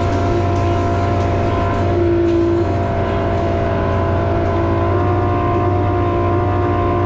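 Powerboat engine running at a steady speed with an even drone.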